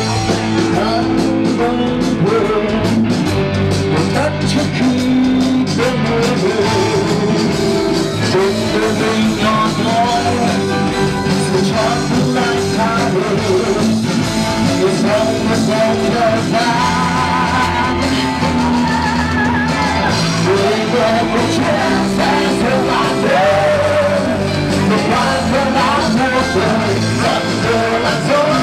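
Rock band playing live, with singing over electric guitar, bass and drum kit.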